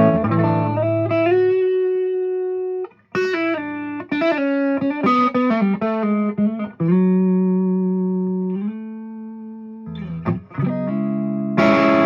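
2007 Gibson Les Paul Standard played through a Fuchs Train-45 6V6 tube amp on a clean tone with the guitar's volume rolled back: chords and single-note lines that ring out, with a long held note past the middle and a fresh chord struck near the end.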